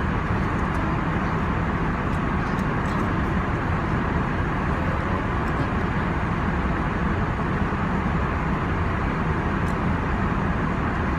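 Steady, unbroken roar of aircraft cabin noise, engine and airflow heard from inside a passenger plane.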